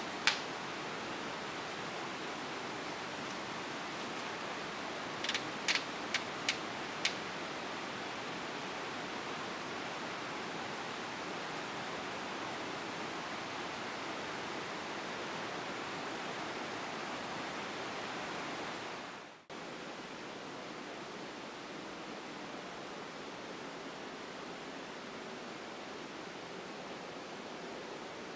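Steady rush of Curug Cikuluwung waterfall and river in rainy-season flood, fast heavy water. A few short clicks sound about five to seven seconds in, and about two-thirds of the way through the rush cuts out for an instant and comes back slightly quieter.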